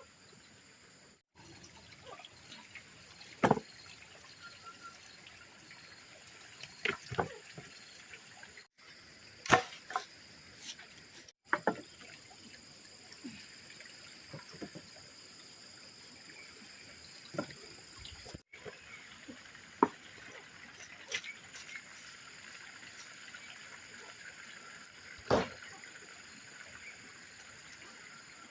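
Water trickling steadily, with sharp knocks and clatters now and then. The sound drops out briefly a few times.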